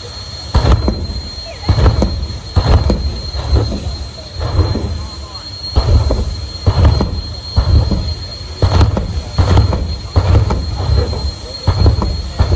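Jet race car's turbine engine running with a steady high whine, broken by loud surging blasts about once a second.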